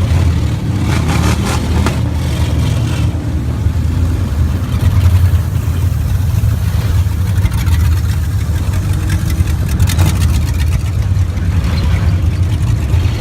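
A loud truck engine running with a deep, steady drone. There is a brief clatter about ten seconds in.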